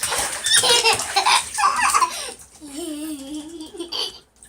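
People laughing in choppy bursts for about two seconds, then a single drawn-out, wavering call of about a second and a half.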